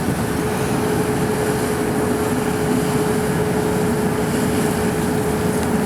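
Steady drone of a car ferry under way, with a steady humming tone that comes in and holds.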